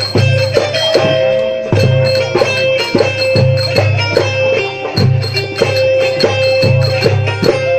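Instrumental passage of Port Said simsimiyya folk music: a held melody note over a steady beat of hand percussion and bass.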